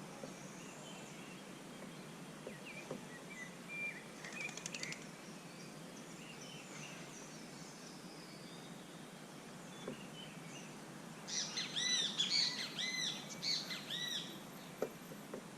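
Small songbirds at a feeder chirping now and then over a steady outdoor hiss, then a loud, fast run of repeated high song notes starting about eleven seconds in and lasting some three seconds.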